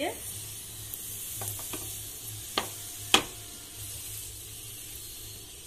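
Cheese paratha sizzling in oil on a hot tawa over a high gas flame. A steel spatula clicks against the pan a few times, most sharply a little after three seconds in.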